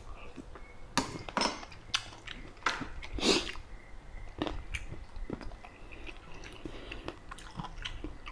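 Close-up mouth sounds of a man chewing a mouthful of eel curry: irregular wet chewing and lip smacks. The loudest smacks come about one and three seconds in, followed by softer chewing.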